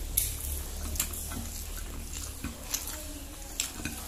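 Close-up eating sounds: a person chewing with a string of short, sharp mouth smacks and clicks, over a steady low hum.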